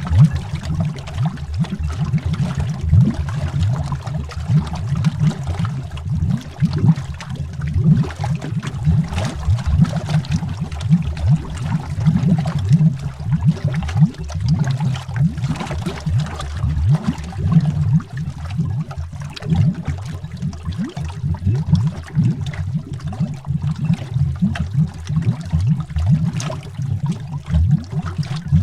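Continuous underwater bubbling: a dense, irregular stream of low, muffled bubble pops and gurgles, heard as if below the surface.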